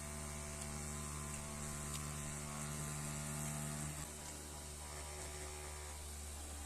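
Small DC motor of a homemade mini table fan running with a steady electric hum; about four seconds in the hum drops slightly and shifts in tone.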